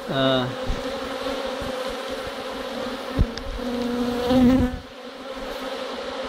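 Honeybees buzzing in a steady hum from an open hive during a frame inspection. There is a single knock about three seconds in, and a louder close buzz a little after four seconds.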